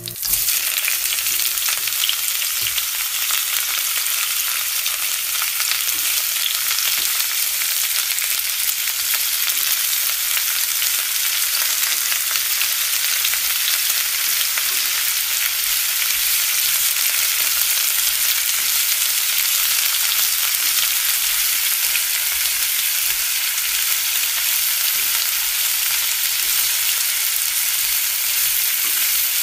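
Skin-on chicken thighs frying in hot oil in a pan: a steady, loud sizzle that starts abruptly. Near the end, sliced mushrooms and onion are sizzling in the pan.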